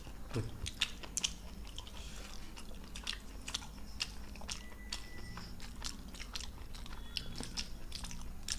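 People chewing luchi with potato curry, picked up close: soft wet mouth sounds with many irregular clicks and smacks.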